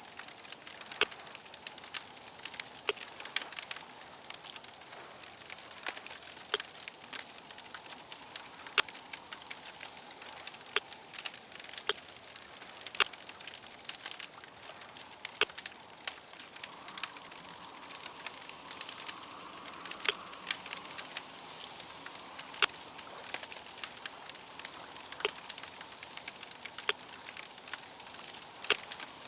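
Crackling fire: a steady hiss broken by frequent sharp pops and snaps at irregular intervals.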